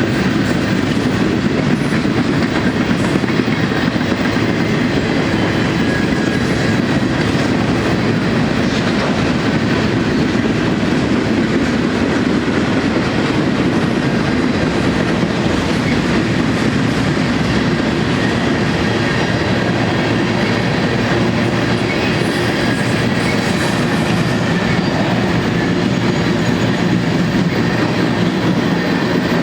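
Freight cars of a manifest train rolling past, a steady rumble of steel wheels on rail with a clickety-clack over the joints.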